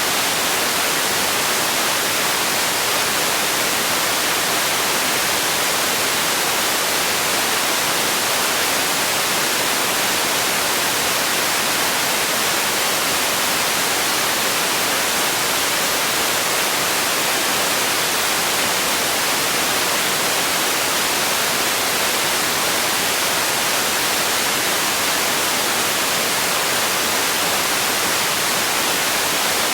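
Steady noise for sleep: a constant, even hiss that never changes, weighted toward the upper range with little bass.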